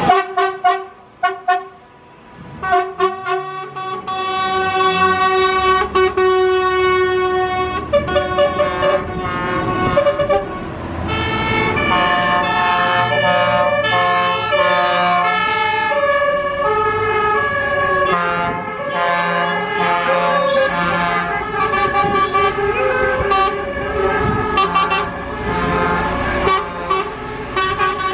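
Musical vehicle horn playing a tune: a few short blasts, then a long run of held notes that step from pitch to pitch.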